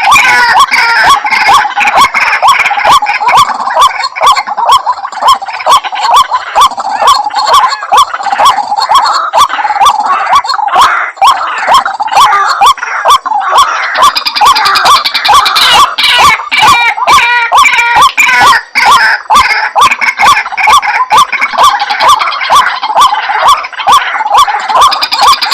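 White-breasted waterhen lure-call recording: loud, rapid, endlessly repeated croaking 'kruak-kruak' calls, dense and overlapping, with sharp clicks running through them.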